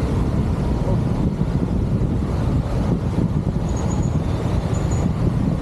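Honda motorcycle running at speed, with wind buffeting the microphone in a dense, unsteady low rumble.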